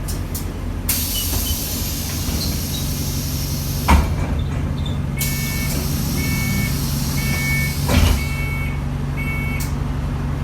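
Bus interior with the engine running steadily underneath, a long hiss of compressed air, and a thump about four seconds in. Then a run of electronic beeps, about one every 0.7 seconds, over a second air hiss and another thump: typical of a bus's air-operated doors and their warning beeps.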